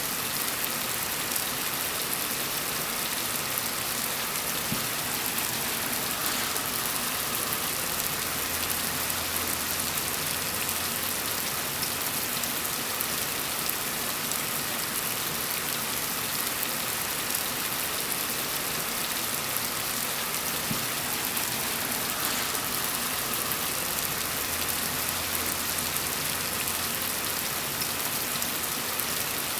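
Steady rain falling, an even hiss of drops on a surface. A faint low hum rises twice beneath it.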